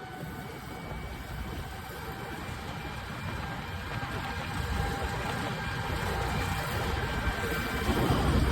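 Vehicle engine running with a low rumble, growing steadily louder.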